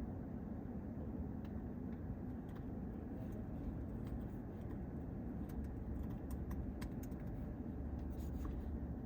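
Steady low rumble of a vehicle or traffic, with scattered faint clicks over it.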